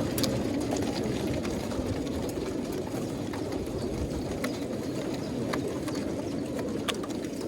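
A mass of young racing pigeons cooing together in a steady low murmur, with scattered short clicks and taps.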